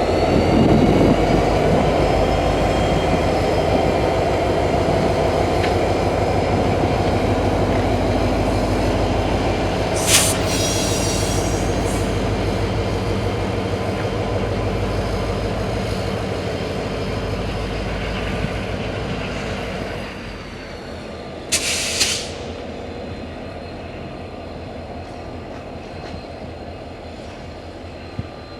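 A train rolling past, with a heavy steady rumble of wheels on rail. Its wheels squeal sharply twice, about a third of the way in and again near the end, and the rumble eases off after about two-thirds of the way through as it moves away.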